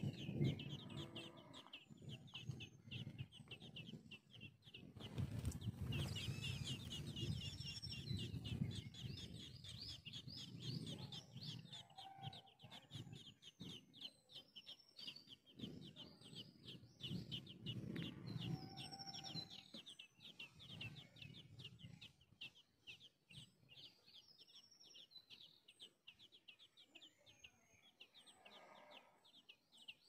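Birds chirping: a fast, steady train of short high chirps, with brief thin whistled calls above it and lower sounds coming and going, mostly in the first two-thirds.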